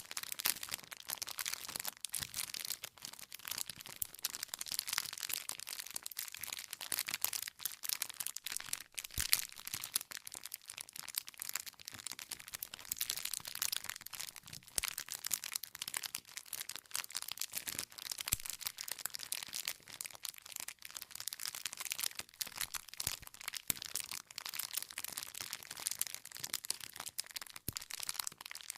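Wood fire crackling: a dense run of small irregular pops and snaps as the logs burn, with no steady tone under them.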